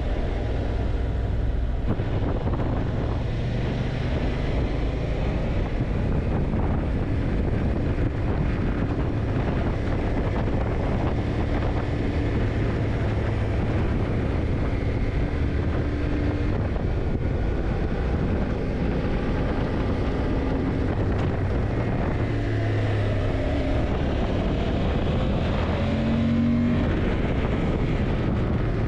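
Yamaha TDM900's parallel-twin engine running as the motorcycle rides along, its note shifting up and down with the throttle, over steady wind rush.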